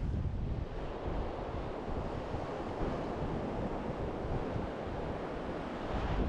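Surf breaking on a beach, with wind buffeting the microphone in steady rough gusts.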